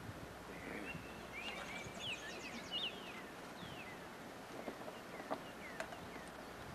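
Small birds chirping: short high calls, mostly falling in pitch, busiest in a quick cluster around the middle, over a faint steady outdoor hiss with a few light clicks.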